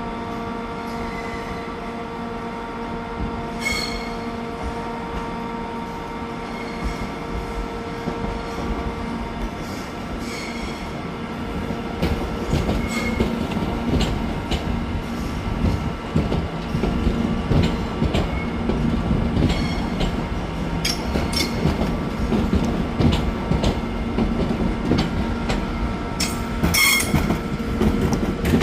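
A train running on the rails: a steady whine at first, then louder wheel and rail noise with many rapid clicks from about twelve seconds in.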